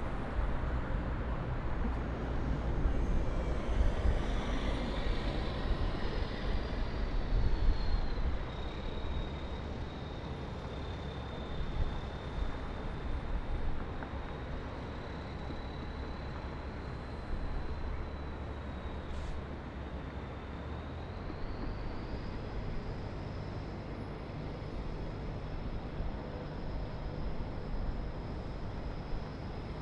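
Distant city traffic: a steady rumble of vehicles, louder for the first several seconds, with a faint high whine that slides down in pitch, holds, then rises again about two-thirds of the way in.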